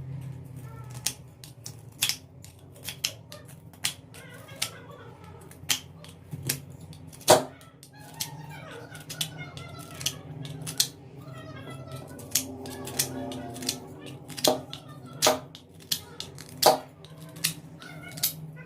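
Sharp, irregular knocks and clicks of hand tools cutting and tapping on wood, about one every half-second to second, over a steady low hum.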